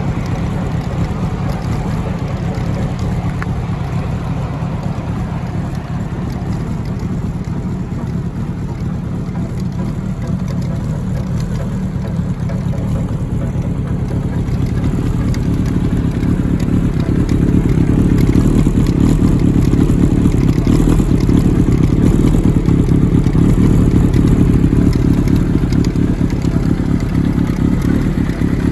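Kawasaki Zephyr 750's air-cooled inline-four running through a Nitro Racing Grenade titanium V3 silencer with the baffle removed. It runs steadily, then grows louder and deeper about halfway through and holds there.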